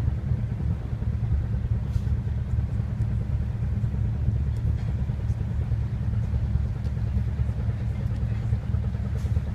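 Cruise boat's engine running steadily, a continuous low rumble.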